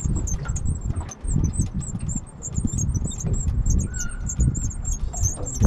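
Rustling and knocking handling noise close to the microphone, with a rapid run of short high-pitched chirps throughout and a brief steady whistle-like tone about four seconds in.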